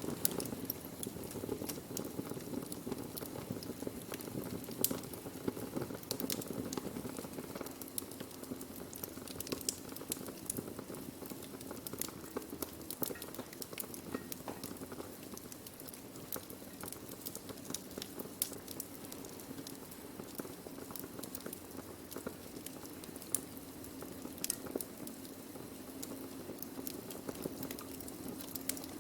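Wood fire burning, with a steady hiss and frequent sharp crackles and pops from the burning wood.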